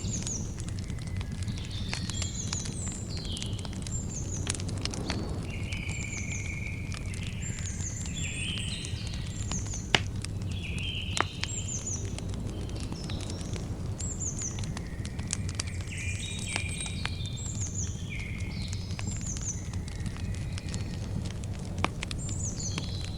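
Campfire crackling over a steady low rumble, with a few sharp pops, the loudest about ten and eleven seconds in and another near the end. Birds chirp and call at several pitches all through.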